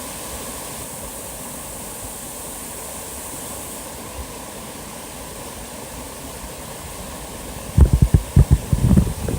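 Waterfall rushing steadily. Near the end, a run of loud, low rumbling thumps breaks in over it.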